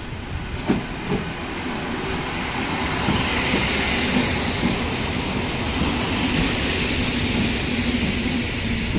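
Red-and-orange regional electric multiple unit running into the platform and passing close by. Its wheels clack over rail joints, with a steady hum under the rumble of the carriages.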